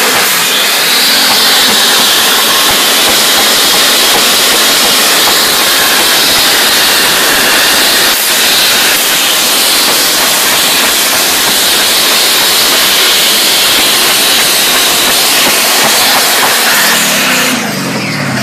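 Twin-turbo 5-litre Holden V8 held at high revs in a burnout: a loud, continuous hiss of engine and spinning tyres. Near the end the level drops and the engine revs fall away.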